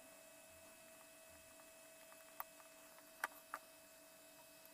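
Near silence: room tone with a faint steady hum, and three light clicks about two and a half, three and a quarter and three and a half seconds in.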